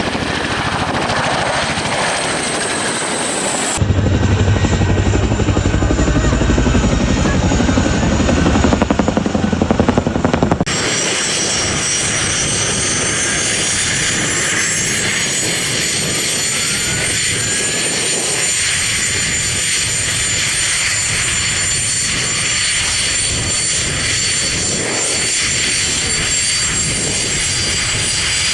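CH-47 Chinook helicopter engines and rotors running, in three clips cut together, with a deeper low rumble in the second. About eleven seconds in, a turbine whine rises in pitch over several seconds and then holds steady.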